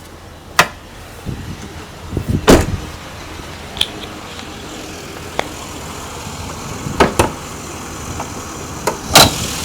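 Several sharp clunks and knocks from the SUV's body panels being handled, the loudest about two and a half seconds in and a pair around seven seconds. Under them the 3.5L pushrod V6 idles steadily while it warms up in the cold.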